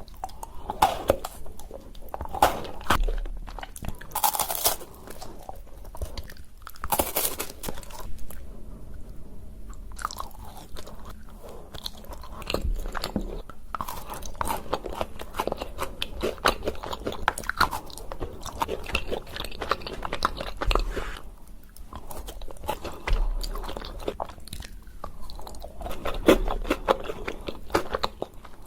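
A person chewing and crunching chocolate candy close to the microphone: irregular crackling crunches with wet mouth sounds, a few louder bites.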